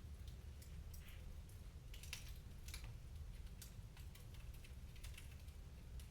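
Wood fire crackling faintly in a fireplace: irregular sharp pops and snaps, a few a second and uneven in strength, over a steady low rumble.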